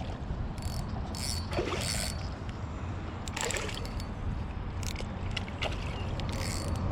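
Creek water sloshing and splashing, with several short splashes over a steady background of running water.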